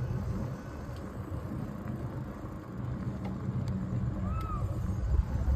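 Car engine running at low speed, a steady low hum with outdoor street noise, growing louder near the end.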